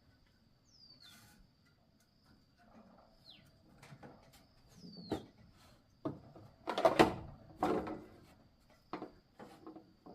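A series of knocks and clatter from something being handled, loudest about seven seconds in, with three short, falling, whistle-like chirps in the first half over a faint steady high tone.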